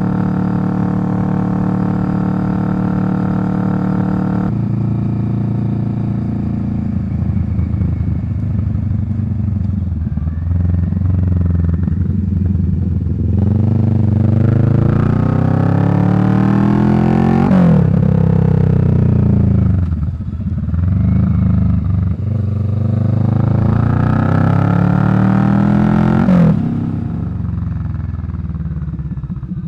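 Kawasaki Vulcan 650's parallel-twin engine through a Delkevic slash-cut exhaust, running steadily at first, then rising in pitch twice over several seconds, each rise ending in a sudden drop.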